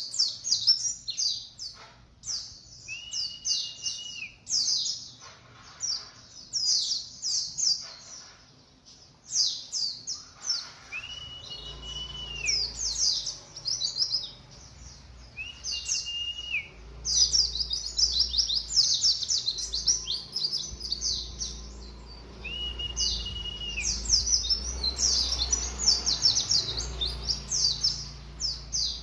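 Young white-eye (pleci), about three months old, singing in bursts of rapid high twittering: a juvenile just beginning to sing. A held, level whistle comes in about four times, each lasting about a second.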